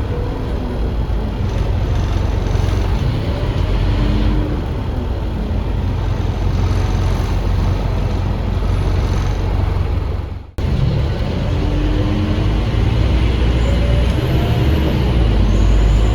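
Interior ride noise of a Scania K310UA articulated city bus: its Scania DC9 diesel engine and the road noise running steadily, with faint shifting whine tones. The sound briefly cuts out about ten and a half seconds in, then resumes.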